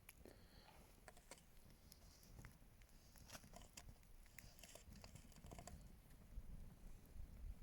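Faint crackling of a small wood fire: irregular soft ticks and pops over near silence, with a low rumble underneath.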